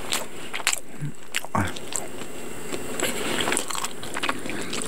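Close-miked chewing of fried bakery bread: irregular soft mouth clicks and light crunches.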